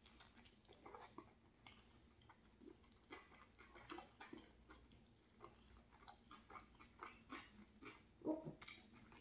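Faint, close chewing of a tuna-and-celery flatbread sandwich: soft irregular crunches and wet mouth clicks, with one louder mouth sound about eight seconds in.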